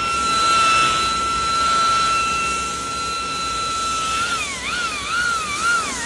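Electric buffer spinning a wool cutting pad on a headlight lens, a steady high whine during the cutting stage of a headlight restoration. About four seconds in, its pitch starts dipping and recovering about twice a second.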